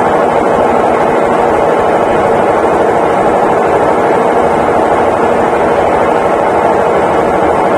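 Consul Facilite 11 kg (CWG11) top-loading washing machine in its final spin, the drum turning at a steady speed with an even whirring hum.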